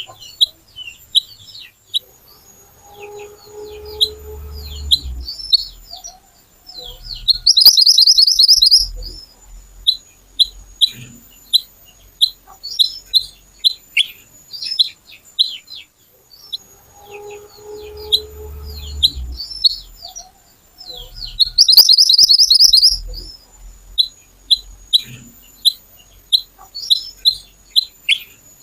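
Pied bushchat (mantenan or kuniran) song: a run of sharp, high chirps broken by a loud, fast rattling trill about 8 seconds in and again about 22 seconds in. The whole passage repeats about every 14 seconds, as in a looped lure recording. A faint lower hum with a steady tone sounds about 4 and 18 seconds in.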